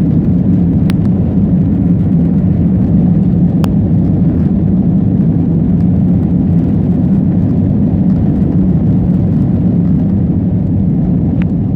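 Jet airliner's steady low rumble of engines and airflow as it climbs out after take-off, with a few faint clicks.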